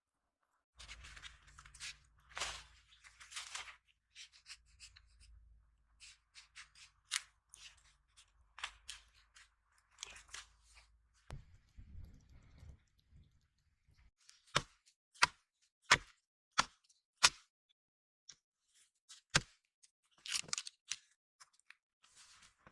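Crunching and scraping handling sounds, then a run of five sharp knocks about two-thirds of a second apart, with one more knock a couple of seconds later.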